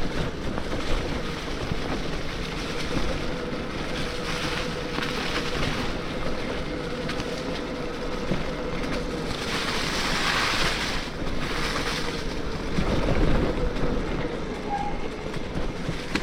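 Electric mountain bike on a trail: wind on the microphone and tyre noise, over a steady whine from the 72V Bafang BBSHD mid-drive motor that drops away about thirteen seconds in. A louder rushing hiss about ten seconds in.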